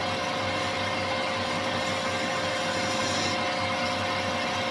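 Manual metal lathe running under power with a steady whine while the tool takes a cut across the metal headstock blank. The cutting hiss changes about three seconds in.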